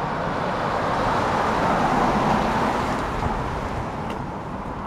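A road vehicle passing by, its tyre and engine noise rising to a peak about two seconds in and then fading away.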